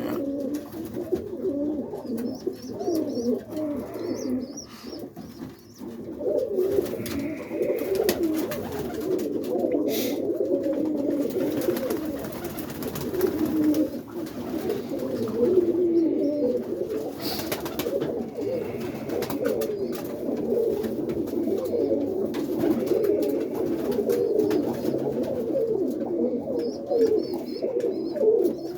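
Many roller pigeons cooing together in a coop, a continuous overlapping chorus of low warbling coos, with a few sharp clicks.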